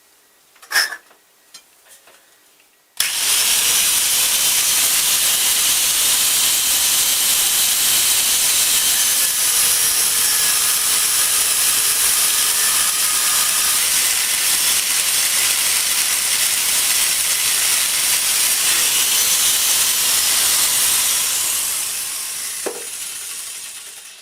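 Power tool with a thin cutting disc cutting through a clamped steel block: a loud, steady hissing grind that starts suddenly about three seconds in and dies away over the last few seconds as the cut is finished. A sharp click comes about a second in, before the cutting starts.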